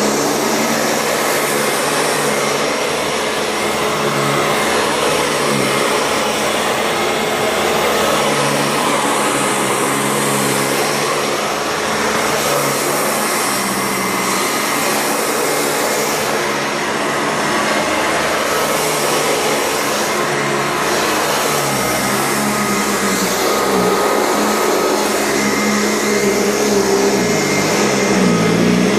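Euroclean bagged vacuum cleaner with a motorised brush roll running continuously as it is pushed back and forth, its sound swelling and easing slightly with the strokes. The bag has a bad seal, so a little air leaks past it.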